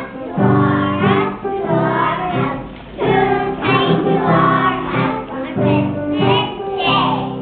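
A group of preschool children singing a Christmas song together in unison phrases, over held keyboard chords.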